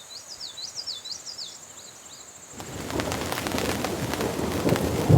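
A bird gives a quick run of short, high chirping notes, then about halfway through heavy rain comes in abruptly, a dense, loud hiss with many drops ticking.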